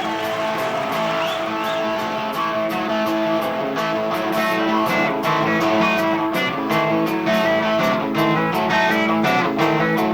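Live rock band playing an instrumental opening: electric guitars with bass, over a steady beat of short strikes that grows busier about four seconds in.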